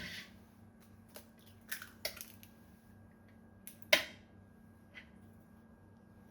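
Scattered small knocks and clicks of objects being handled, about eight in six seconds, the loudest right at the start and about four seconds in, over a faint steady hum.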